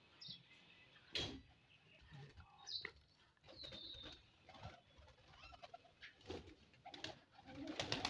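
Faint pigeon cooing with a few short high bird chirps and scattered soft knocks, growing busier near the end as the flock comes out to feed.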